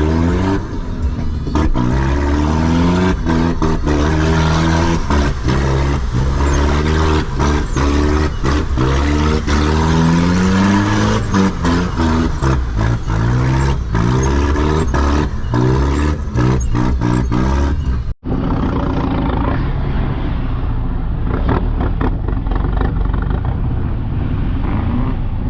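4x4 off-road vehicle engine revving up and down under load, its pitch rising and falling again and again, with many sharp knocks and clatters as the vehicle works over rough ground. About 18 seconds in the sound cuts abruptly to a steadier, duller engine note.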